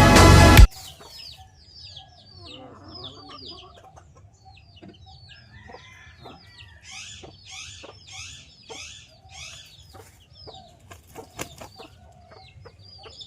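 Music cuts off abruptly within the first second. Then comes a flock of chickens with chirping birds: many short high chirps throughout, some lower clucking, and a run of five harsher calls about half a second apart in the middle.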